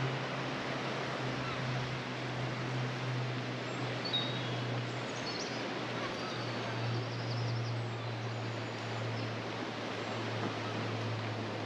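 Steady outdoor background rush with a low steady hum under it, and a few faint, high bird chirps around the middle.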